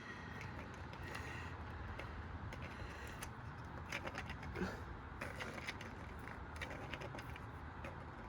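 Washing machine drum turning with a steady low motor hum, while a coin and other loose objects inside rattle and click irregularly against the drum.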